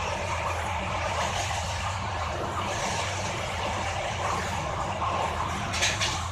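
Steady running noise inside a moving train: a constant low rumble under a broad rushing hiss of wheels and air, with a brief sharper hiss near the end.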